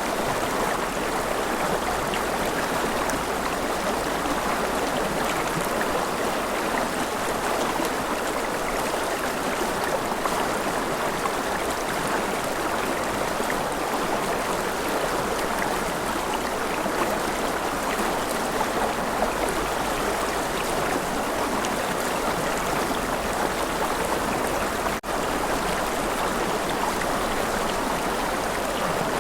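River water flowing steadily, with a split-second dropout near the end.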